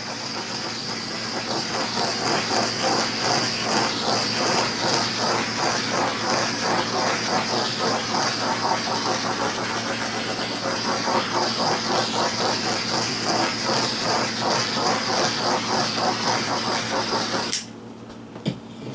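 Handheld electric blower, such as a heat gun or hair dryer, running steadily with a high whine over a low hum, blowing on the wet poured paint to open up the cells. It cuts off suddenly near the end.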